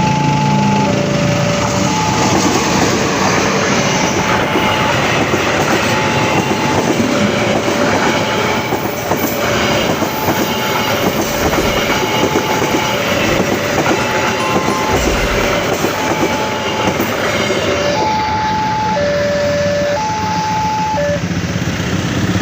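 A train passing close by with a steady, loud rush of wheel and rail noise. Over it a level-crossing warning alarm sounds a two-tone high-low chime about once a second.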